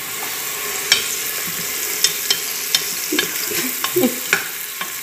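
Chopped onion and garlic sizzling in hot oil in an aluminium pressure-cooker pot, being sautéed as a refogado base, with a spoon stirring and knocking against the pot in several sharp clicks.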